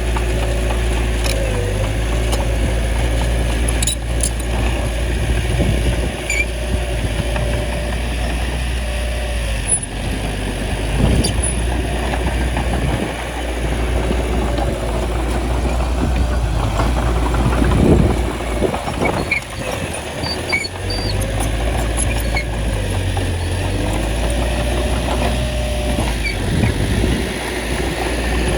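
Small bulldozer's diesel engine running steadily, with a wavering higher tone above it and a few knocks and clanks around the middle.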